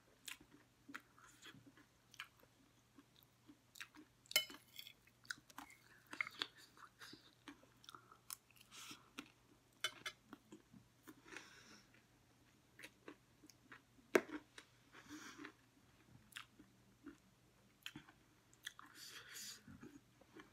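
Close-up chewing of chatpate, a spicy puffed-rice snack: soft crunching and many small wet clicks of the mouth, with two sharper, louder clicks about four and fourteen seconds in.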